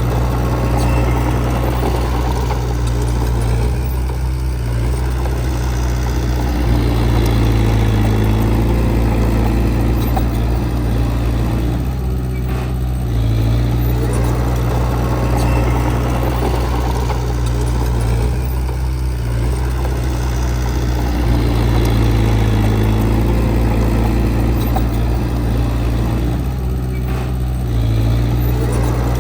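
Heavy earthmoving machine's diesel engine running steadily, its note easing and swelling every several seconds.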